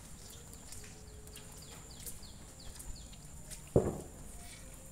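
A bird calling a quick run of short falling chirps, about three a second, over a faint steady high whine, with one heavy thump near the end.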